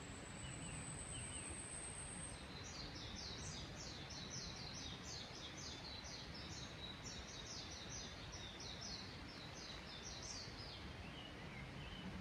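Wild birds singing: a thin, very high whistle in the first couple of seconds, then a long run of quick repeated high notes lasting about eight seconds, over a steady background hiss.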